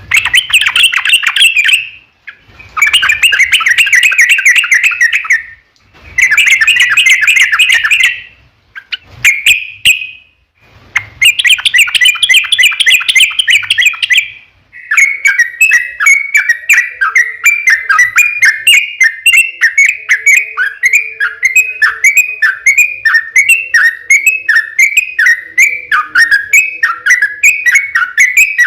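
Yellow-vented bulbul (trucukan) singing: several bursts of rapid chattering trills, each a few seconds long with short pauses between, then from about halfway a long unbroken run of quick repeated notes.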